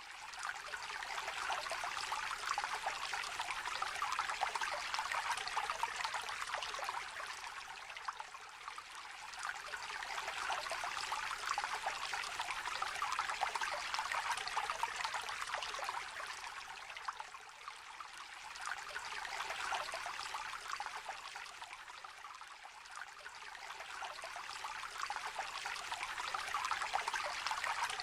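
Shallow river trickling and babbling over stones, a steady splashing that swells and eases every few seconds.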